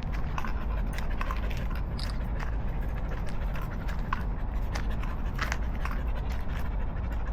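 Footsteps on pavement with scattered, irregular clicks and scrapes, over a steady low rumble.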